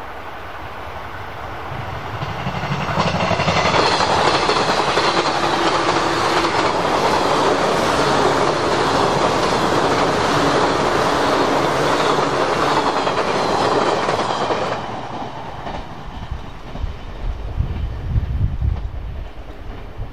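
A JR West 485-series limited-express electric train passing at speed: its wheel and rail noise builds as it approaches, stays loud while the cars go by, and fades about three-quarters of the way through as it runs away. Low, gusty wind buffets the microphone near the end.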